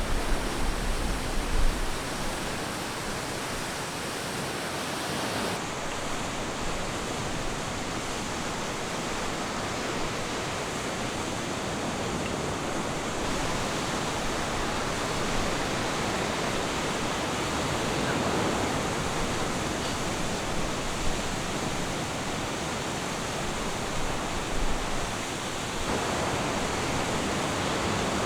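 Ocean surf washing onto a beach, a steady rushing hiss without breaks, with a low rumble in the first couple of seconds.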